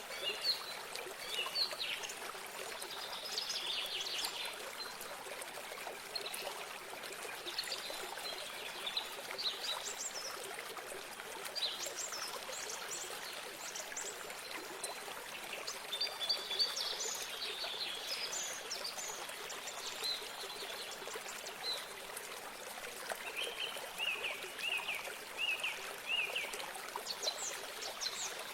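Water trickling steadily, like a small stream, with small birds chirping and singing over it throughout. Near the end, one bird gives a quick run of about six similar chirps.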